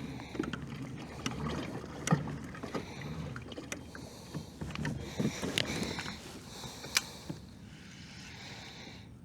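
Fishing kayak on the water: water swishing along the hull with scattered knocks and clicks from the boat and gear on board, settling down near the end.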